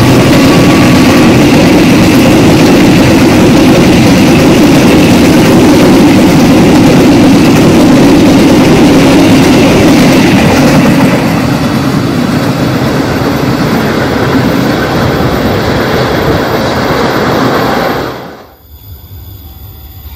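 Passenger coaches of a KAI train running past close by at speed: a loud, steady rush of wheels on rail. It eases a little about halfway through, then drops away abruptly near the end.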